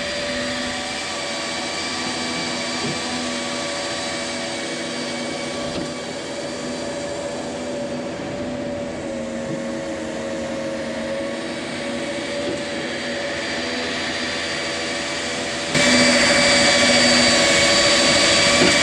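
Steady machine drone with a held whine from the equipment unloading granular urea-sulfur fertilizer out of a semi trailer's hoppers. It suddenly gets louder near the end and stays at that level.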